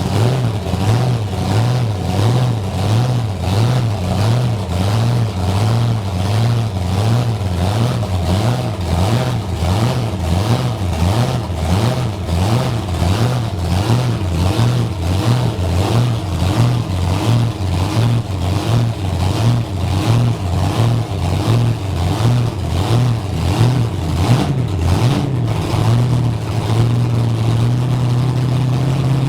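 Monster truck engine idling with a heavy, rhythmic lope, settling to a steadier note near the end.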